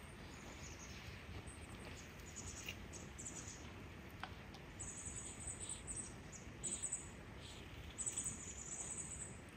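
Small birds' high, thin chirps and short trills, more of them and longer in the second half, over a faint steady low rush.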